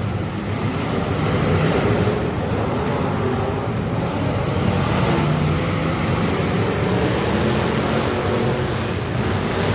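Several demolition derby cars' engines running and revving together, making a loud, steady, overlapping drone.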